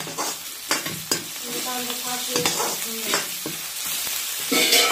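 Sliced onions and dried red chillies sizzling in hot oil in a metal kadai while a metal ladle stirs them, scraping against the pan in repeated strokes, with a louder scrape near the end.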